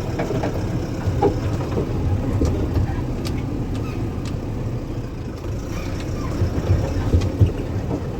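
Mahindra Furio 11 truck's diesel engine running smoothly, a steady low rumble heard inside the cab, with a few faint light clicks.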